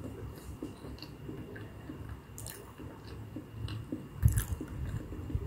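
Close-up chewing of a mouthful of tteokbokki rice cakes in sauce, with soft, wet, irregular mouth clicks. One louder wet mouth sound a little over four seconds in.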